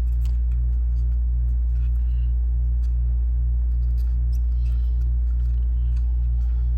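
Steady low electrical hum with a faint regular throb about three times a second. Over it come faint, scattered scratchy rubs, a cotton swab being twisted over a circuit board to lift sticky solder flux.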